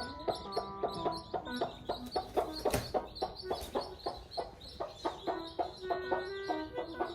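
Hen clucking over background music with a quick, steady beat and held notes.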